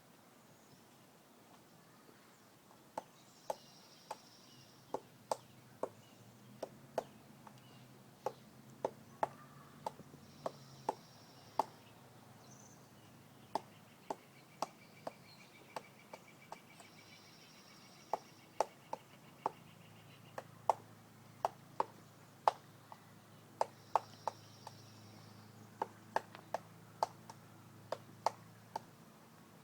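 A woodpecker pecking: single sharp knocks, unevenly spaced at about one or two a second, in runs with short pauses between. These are separate pecks, not the fast roll of drumming.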